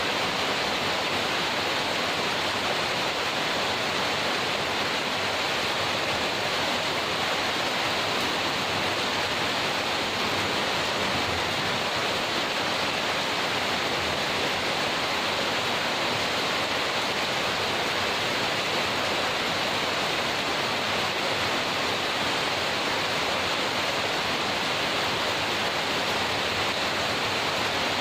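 Heavy rain falling in an unbroken, even hiss, with no thunder or other events.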